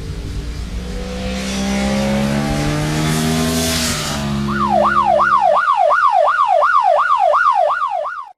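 A motor vehicle accelerating past, its engine pitch rising with a swell of tyre and wind hiss. About four and a half seconds in, a yelp siren starts, sweeping up and down about three times a second, and it cuts off abruptly.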